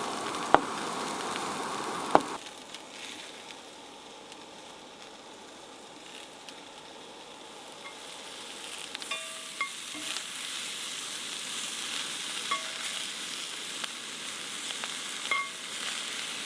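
Sausage and vegetables sizzling as they fry in a pan, with a few sharp clinks of a utensil in the first two seconds. The sizzle drops off for a few seconds, then builds again.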